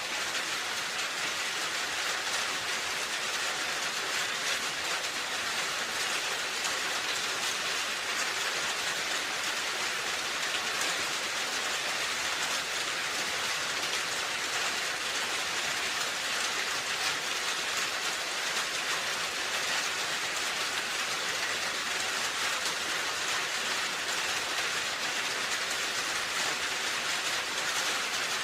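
Steady rain falling on a roof, an even hiss of many drops with no pauses or changes.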